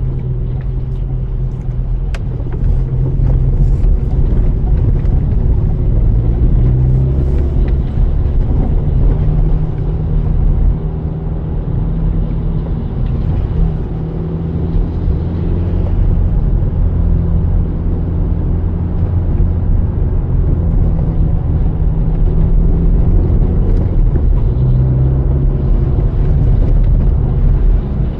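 A car driving, heard steadily as a low engine and road rumble.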